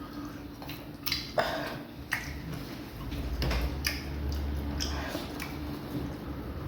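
Eating sounds: several short wet smacks and clicks from mouths chewing fufu and soup, over a steady low hum.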